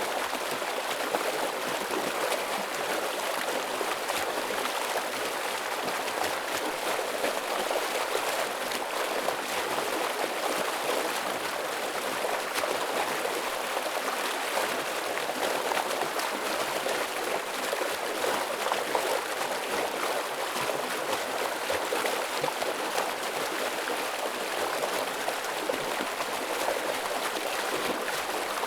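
Heavy stream water rushing and splashing steadily, a dense even flow with no break.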